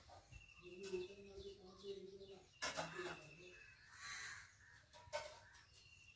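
Faint outdoor background of birds calling, with crows cawing.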